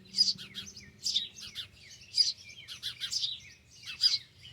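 Nestling birds in a porch nest chirping, high chirps in quick clusters repeating about once a second. The nestlings are nearly ready to fledge.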